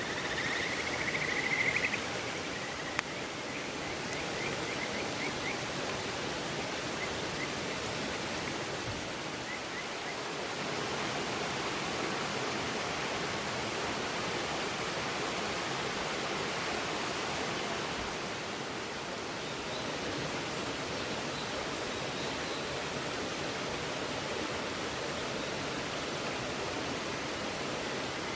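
River water flowing, a steady rushing, with a short high trill near the start.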